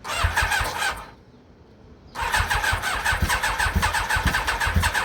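Yamaha YZF1000R Thunderace's inline-four being cranked on the electric starter: a short burst of about a second, then after a pause a longer spell of rhythmic cranking. The engine does not catch, freshly rebuilt carbs with no choke, which the owner takes to need choke.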